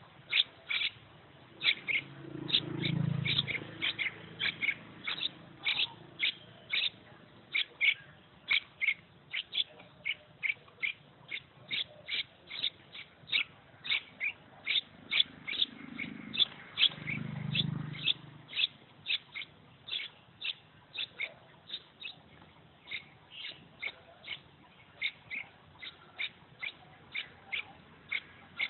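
A young bird chirping over and over, short high chirps at about two or three a second. A low rumble comes in twice, a few seconds in and again about halfway.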